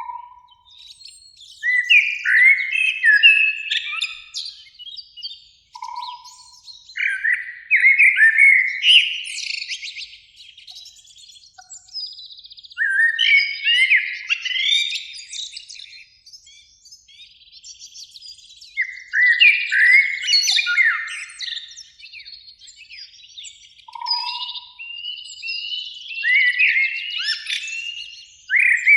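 Common blackbird singing: about five separate phrases of quick fluting notes, each running into a higher twitter, with short pauses between them. A few brief, lower single notes fall in the gaps.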